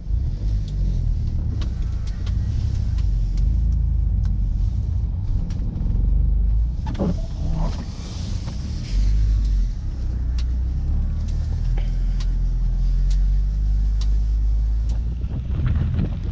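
Tuned turbocharged 1.8-litre four-cylinder of an Audi B6 A4 Avant quattro with traction control off, revving up and down as the car is driven hard through deep snow. The engine note rises and falls repeatedly, with scattered short clicks over it.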